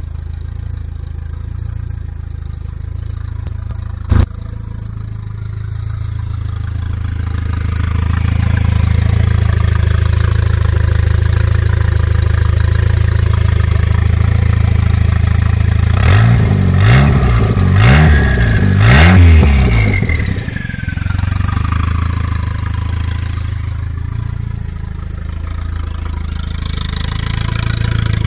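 Renault 21 Turbo's turbocharged four-cylinder engine running at idle, with one sharp click about four seconds in. About two-thirds of the way through it is revved four times in quick succession, each blip with a short hiss on top, followed by a falling whistle as it drops back to idle.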